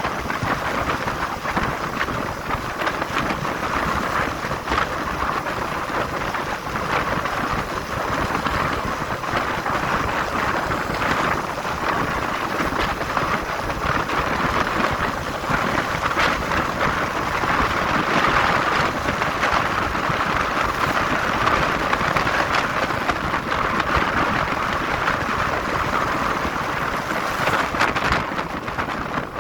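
Steady rushing wind and road noise from a moving motorcycle, with the wind buffeting the microphone.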